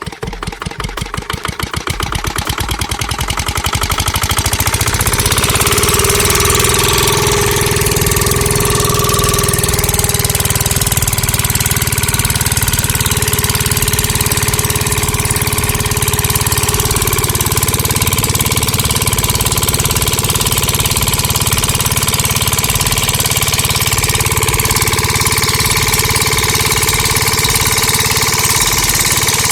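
A homemade mini engine model starting up: a rhythm of knocks that speeds up over the first few seconds, then settles into a steady, fast mechanical running sound.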